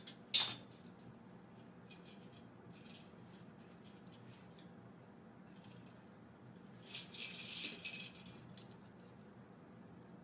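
Hand-made foley rattling and jingling: a few short metallic clicks and jingles, then about a second of louder shaken rattling a little past the middle.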